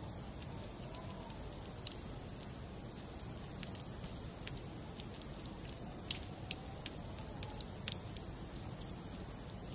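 Wood fire burning in a fireplace: irregular sharp crackles and pops of burning logs over a steady low rumble, with a few louder pops about six and eight seconds in.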